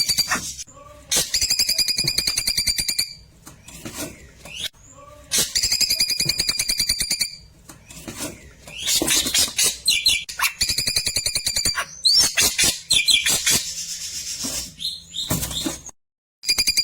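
Klewer bird singing: a rapid, evenly pulsed buzzy trill about a second and a half long, repeated several times, with bursts of sharp chirps and quick whistled sweeps between the trills.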